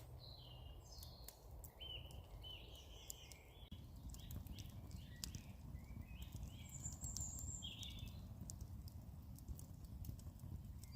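A songbird singing a varied string of short whistled phrases, faint, over scattered sharp clicks and a low rumble.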